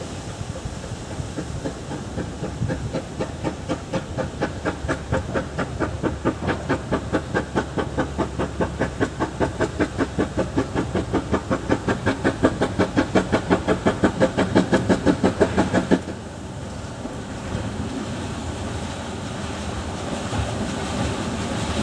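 Narrow-gauge steam locomotive working a train: rapid, evenly spaced exhaust chuffs, about four a second, growing louder as it approaches. About three-quarters of the way in they stop abruptly, leaving a steadier rumble of the train running.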